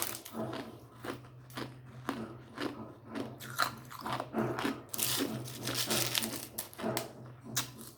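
Ice being crunched between the teeth, bite after bite at about two to three crunches a second, with a longer run of dense crunching about five seconds in.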